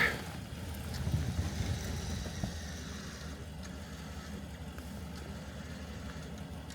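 Truck engine idling steadily, a low rumble.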